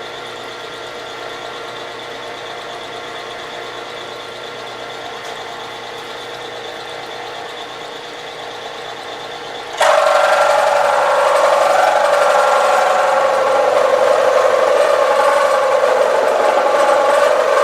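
Milling machine spindle running with a 2-flute ball end mill, then about ten seconds in the cutter is hand-fed into the workpiece and a much louder, steady cutting noise begins.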